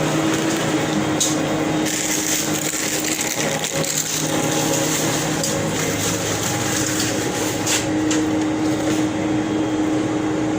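Steady mechanical hum and whir of a running machine indoors, with a low steady tone under it.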